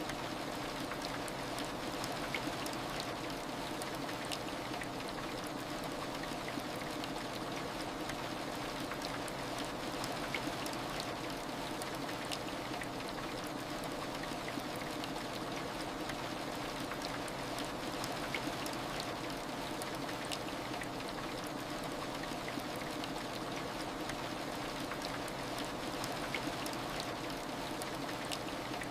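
Heavy rain ambience: a steady, even hiss of falling rain with scattered small drop ticks.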